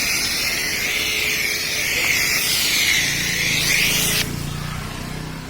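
Car-wash pressure washer spraying a car with a loud steady hiss, cutting off suddenly about four seconds in.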